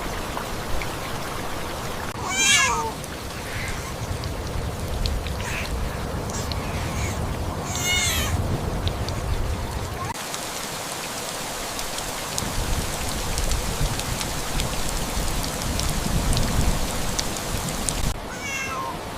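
A cat meowing three times, spread out, in short high wavering calls, over a steady hiss of rain.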